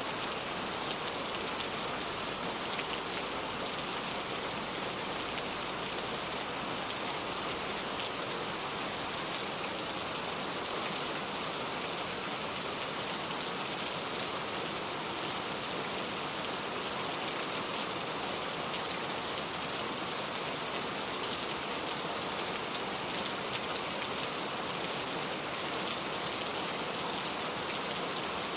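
Heavy pouring rain, a steady hiss of many drops hitting surfaces, with fine individual drop ticks throughout and no change in intensity.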